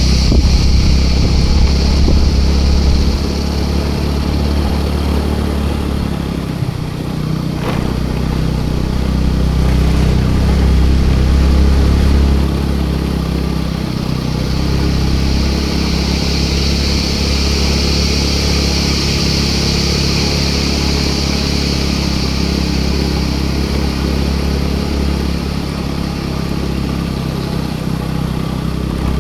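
Scooter engine running under way, its low hum easing and picking up slightly with the throttle, with one sharp click about eight seconds in. A high steady hiss rises and falls in the middle.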